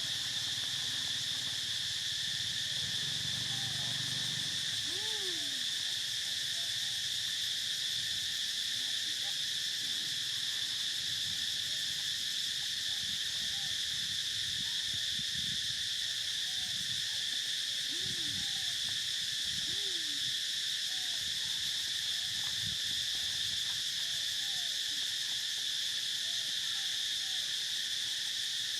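Steady, unbroken high-pitched drone of a chorus of insects such as cicadas or crickets. A few faint short calls rise and fall in pitch beneath it.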